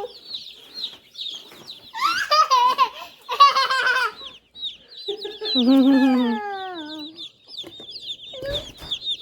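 A brood of day-old chicks peeping continuously, many short high chirps overlapping. A child's voice joins in twice, laughing about two seconds in and vocalizing again around the middle.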